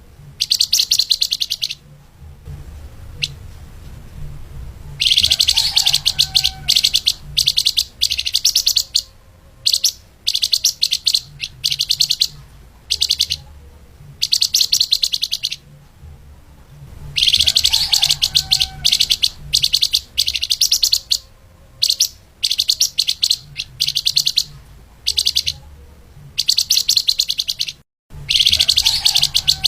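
Flamboyan (lemahan) songbird singing fast, tightly packed high chirping phrases ('speed rapat'), in bursts of one to a few seconds broken by short pauses, over a faint low hum.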